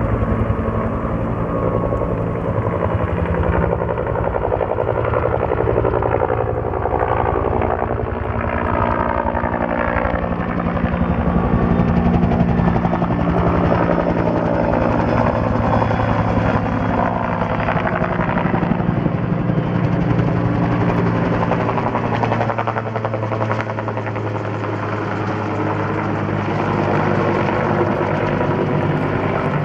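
Firefighting helicopter running close by, a loud, steady beat of rotor blades and engine that swells a little around the middle.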